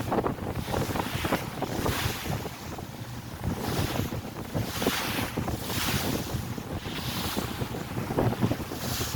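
Wind buffeting the microphone on a moving ferry, with water rushing past the hull. The hiss surges and fades every second or so over a faint, steady low hum.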